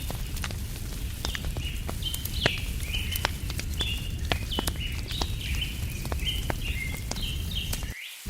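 Wood fire crackling with frequent sharp pops over a low steady rumble, while a bird calls in quick repeated chirping notes. Near the end the fire and rumble cut out briefly while the chirping carries on.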